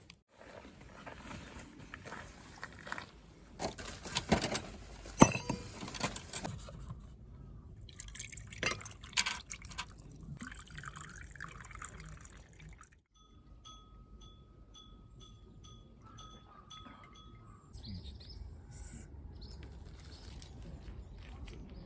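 A drink being handled and poured, with liquid sounds and clinks and knocks of a container. Partway through, a steady high tone with evenly spaced ticks runs for a few seconds.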